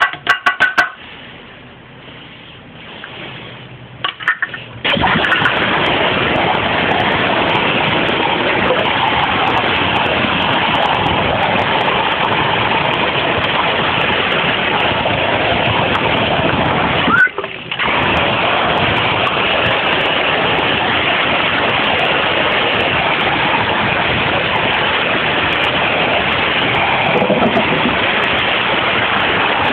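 Tap water running steadily, likely rinsing out a dirty water dish; it stops for a moment about halfway through, then runs again. A few light knocks come before the water starts.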